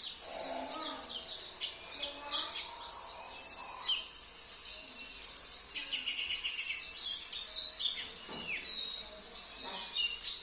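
Songbirds singing without pause: rapid high chirps, whistles and trills overlapping, the song mix of a pleci (white-eye) therapy track with canary and other songbird songs laid in. A buzzy trill comes in about six seconds in.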